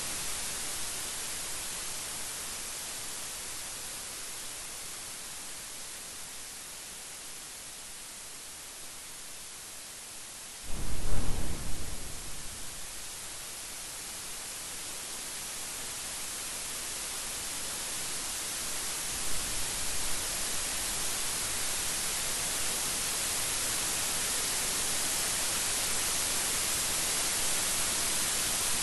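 Steady heavy rain, a dense even hiss, broken about a third of the way through by a sudden loud thunderclap that rumbles away over a couple of seconds. A fainter rumble comes later, and the rain slowly grows louder toward the end.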